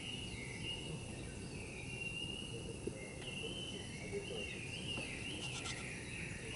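Outdoor natural ambience: a continuous high-pitched wildlife chorus that wavers up and down in pitch, over a low, steady background rumble.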